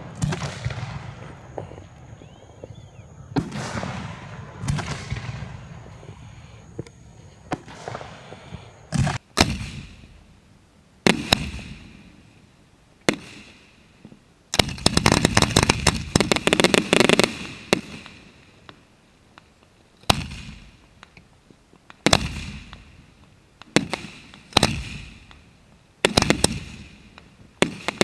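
Display fireworks going off: booming reports with echoing tails. In the middle there is a dense salvo of rapid crackling reports lasting about three seconds, and near the end single sharp reports come about every two seconds.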